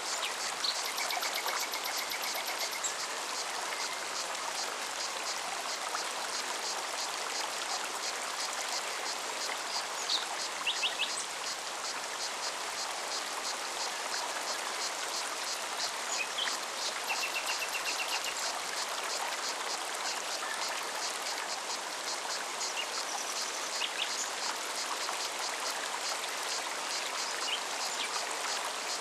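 Mountain forest stream running steadily over rocks. A cicada sings throughout in a fast, even pulsing, and a few short bird chirps come and go.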